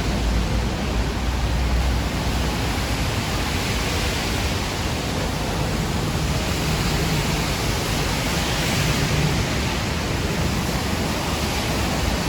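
Steady rain falling, a continuous even hiss, with a low rumble in the first couple of seconds.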